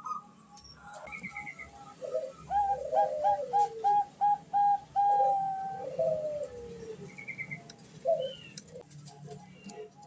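Female zebra dove (Bangkok perkutut) cooing: a fast run of short staccato notes in the middle, ending in a longer held note, with slower falling coos beneath, a call meant to draw a male.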